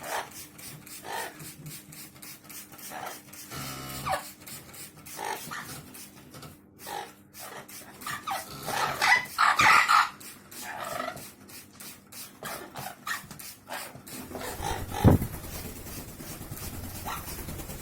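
Pet parrots calling in short squawks, with many sharp clicks in between; the calls are loudest about halfway through.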